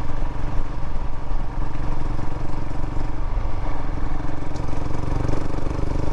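Royal Enfield Himalayan's single-cylinder engine running steadily under way.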